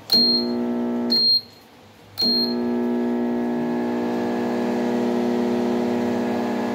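Brastemp microwave oven humming loudly while running: a short high beep, about a second of hum, a beep as it stops, then another beep and the hum again for several seconds before a final beep. It hums but does not heat, which points to a fault in the high-voltage section (transformer, high-voltage capacitor, diode, high-voltage fuse or magnetron).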